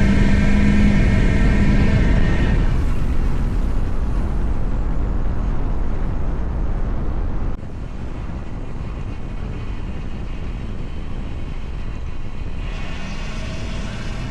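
Straight-piped Duramax V8 turbodiesel on a moving truck: the exhaust drones under load for the first couple of seconds, then drops away to mostly road and wind noise. Near the end the engine pulls again and its pitch rises as it accelerates.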